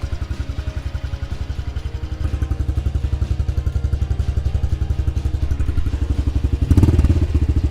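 A Honda CRF110F's small air-cooled single-cylinder four-stroke engine idling, firing in an even beat of about twelve pulses a second, just started without choke thanks to its fuel injection. It gets briefly louder near the end.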